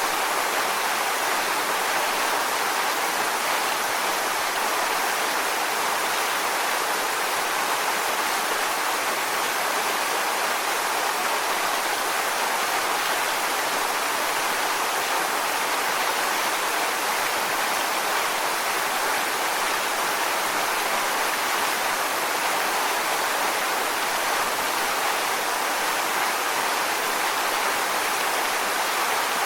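Waterfall: a steady rush of falling water splashing on rocks, constant throughout, with its energy in the middle and upper range and little low rumble.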